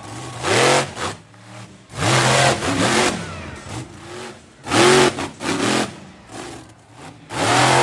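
Monster truck engine revving in a series of short, loud throttle blips, each rising and falling in pitch, with the engine dropping back between them.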